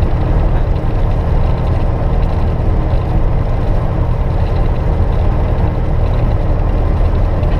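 Cessna 172S's four-cylinder Lycoming IO-360 engine and propeller running steadily, heard as a loud, even low drone from inside the cockpit.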